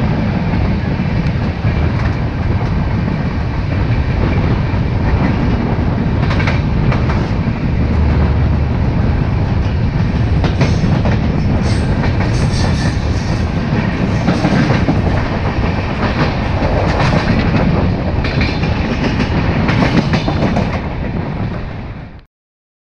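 Express passenger train running through a station at speed, heard from aboard: a steady rumble and rush of air, with wheels clattering over rail joints and points, the clicks coming often in the second half. It fades and cuts off shortly before the end.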